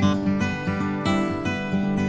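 Music led by an acoustic guitar, with plucked and strummed notes.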